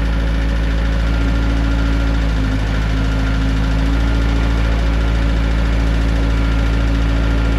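Gehl 4625 SX skid steer's small engine running steadily, its note shifting briefly about two and a half seconds in.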